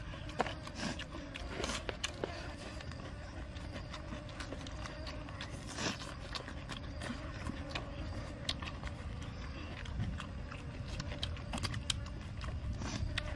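Eating sounds: wet chewing and lip-smacking, a string of short, irregular smacks and clicks over a steady low background rumble.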